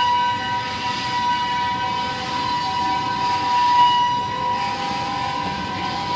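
Train passing with a loud, sustained high-pitched squeal: several steady tones, the strongest held without a break, over the rumble and hiss of the cars.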